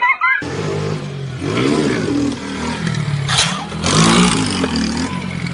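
Motorcycle engine running and revving, its pitch rising and falling twice, with bursts of noise in between.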